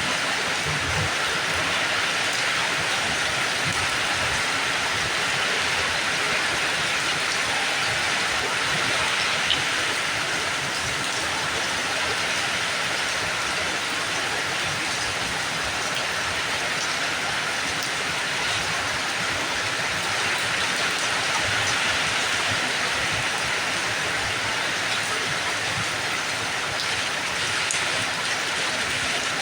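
Steady rain falling, an even hiss with a few faint drop taps now and then.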